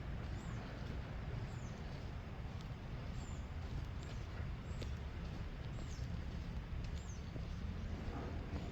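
A small bird giving short, high chirps that each slide down in pitch, about one a second, over a steady low rumble.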